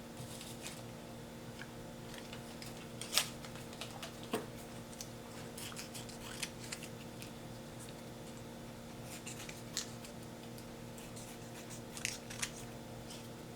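Scissors snipping paper in scattered single cuts, a handful of short sharp snips spread over several seconds, cutting a strip for the bird's legs. A steady faint hum runs underneath.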